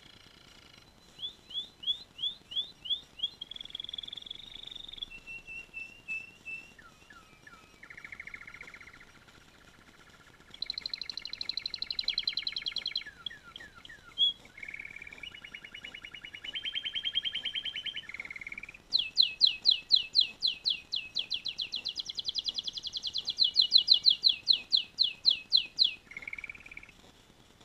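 Canary singing a long, varied song of rapid trills and repeated notes, with a fast run of loud rising notes near the end.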